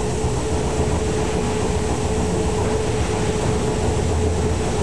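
Vintage electric tram running along street track, heard on board: a steady rumble with a constant hum.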